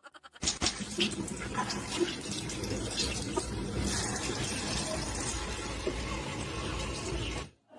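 Steady rush of running water with a few small clicks, starting just after the beginning and cutting off abruptly near the end.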